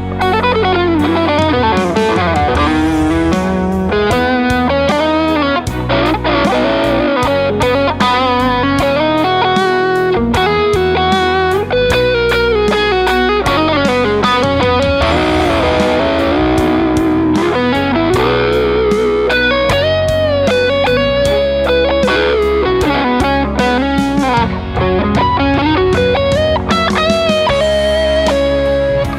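Fender Custom Shop Telecaster electric guitar playing melodic lead lines, with string bends and vibrato, over a backing track with drums.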